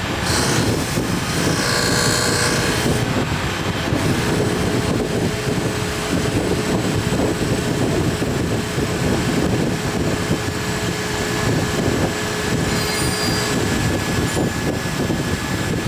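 Steady, loud din of piston-factory machinery, with a high squeal in the first few seconds and a steady hum through the middle.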